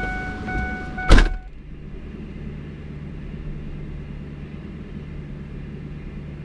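A truck's warning chime rings steadily in short repeating tones. About a second in, a single loud slam of the door shutting cuts it off. A steady low hum carries on after it.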